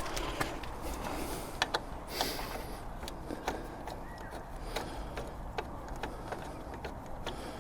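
Scattered small clicks and taps of hand tools on metal as a bolt is worked loose on a motorbike's footrest linkage, at irregular intervals with a brief scrape about two seconds in.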